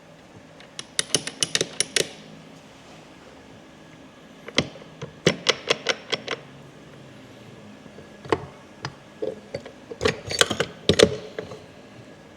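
Metal parts of a Polaris Sportsman 850 transmission clinking and clattering against each other as they are handled. The clicks come in quick runs: about a second in, again around five seconds, and a busier run near the end.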